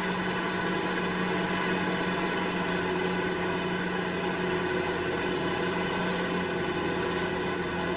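A machine engine running steadily, with a constant hum and no change in pitch or load.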